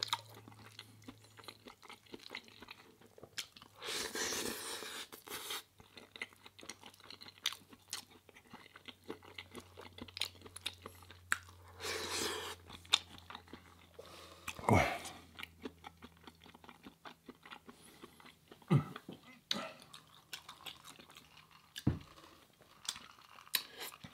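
A person eating close to the microphone: chewing and crunching, with many small mouth clicks and two longer crunching stretches about four and twelve seconds in.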